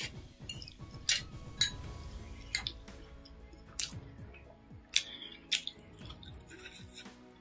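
A person chewing a mouthful of chow mein noodles close to the microphone, with wet mouth clicks and smacks about once a second. Around four seconds in, a spoon clinks in a small bowl of chilli paste.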